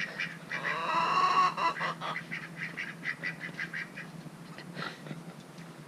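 Ducks quacking in quick, chattering runs, loudest in the first two seconds, then thinning out.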